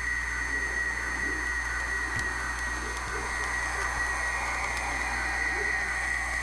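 Model train locomotives running on track: a steady electric motor whine over a low hum, with a click about two seconds in and another about a second later.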